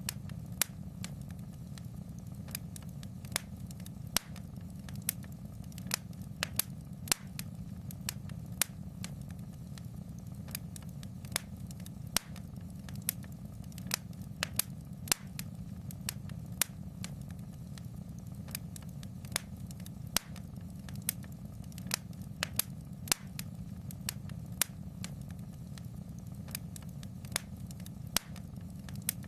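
Wood fire burning in a fireplace: a steady low rumble of the flames with sharp, irregular crackles and pops, a few every second.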